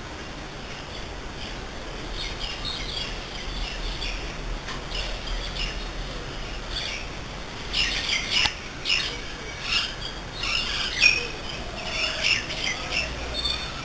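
Birds chirping in short, repeated calls that come more often and louder from about halfway through.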